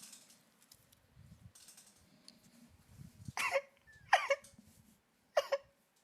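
A person's voice making three short, high-pitched wordless vocal outbursts, the second about a second after the first and the third about a second later.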